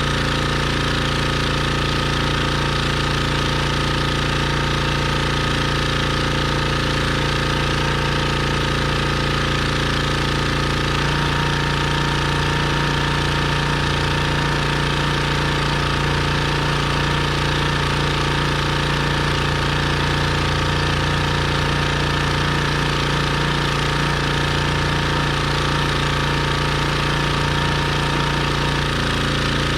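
Pressure washer engine running steadily under spray, with a small shift in its tone about eleven seconds in.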